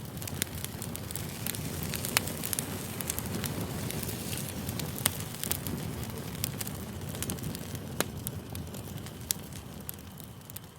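Campfire burning: a steady rush of flames with scattered sharp crackles and pops, the loudest about two, five and eight seconds in. It fades toward the end.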